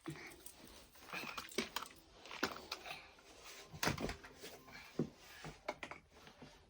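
Scattered light clicks and knocks of small hard objects, typical of children's toys being handled and put down, the sharpest about 2.5, 4 and 5 seconds in.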